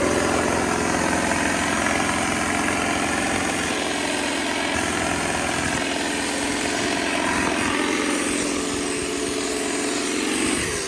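Tractor diesel engine running steadily, its pitch dipping right at the end.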